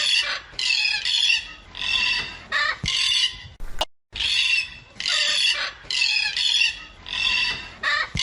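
A bird giving harsh squawking calls over and over, about one call every two-thirds of a second, with a short break about four seconds in.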